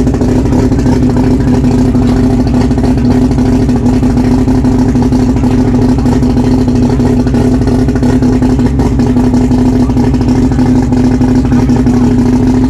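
Loud car engine running at a constant speed, a steady drone that holds one pitch without revving up or down.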